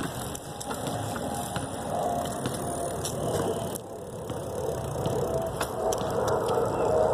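A bicycle being ridden: tyres rolling on pavement, with scattered rattles and clicks from the bike and rough wind noise on the microphone.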